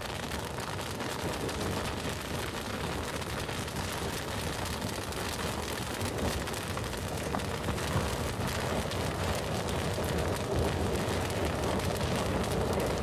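Campfire burning: a steady rushing hiss with many small crackles and pops from the burning wood.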